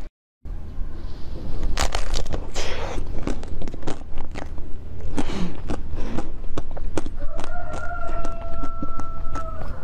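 Close-miked crisp clicks and crunches of frozen food being chewed and handled. Near the end a steady two-note tone is held for about two seconds.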